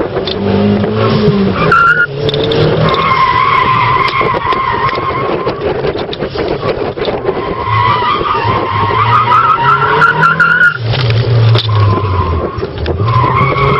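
Toyota Starlet Glanza turbo's 1.3-litre four-cylinder engine running hard from inside the cabin, its revs dropping sharply about two seconds in and again near eleven seconds, with the tyres squealing through the corners.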